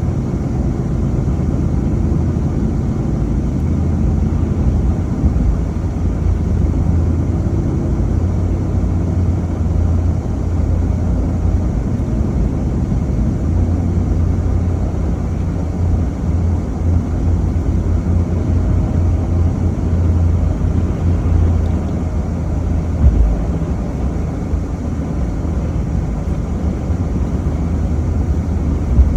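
A vehicle driving: a steady low rumble of engine and road noise, with a small knock near the end.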